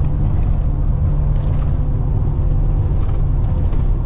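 Steady low road-and-engine rumble inside a plow truck's cab while it drives along the highway, with a few faint ticks over it.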